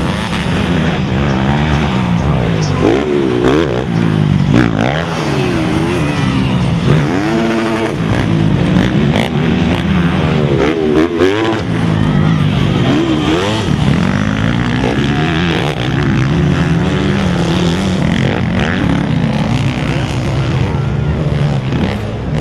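Motocross bikes racing, several engines revving up and down, the pitch rising and falling again and again.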